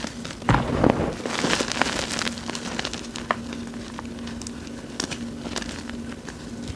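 Hands crushing small chunks of gym chalk in loose chalk and cornstarch powder: dense crackly crunching, loudest about half a second to a second in, over a faint steady hum.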